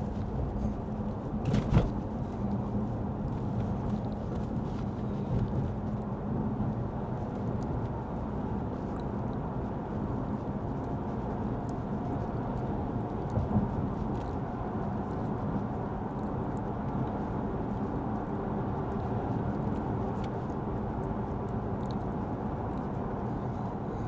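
Steady road and engine noise inside the cabin of a moving Lexus ES 350 F Sport sedan, a low even rumble with a faint hum, with a sharp knock about two seconds in.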